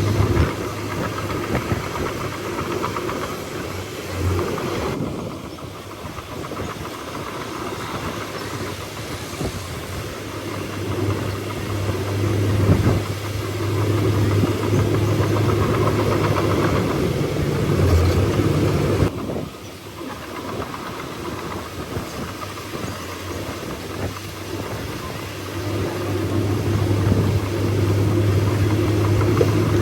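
Bulldozer's diesel engine working under load, its note swelling and easing as the load changes, with sudden drops in the sound about five seconds in and again near twenty seconds.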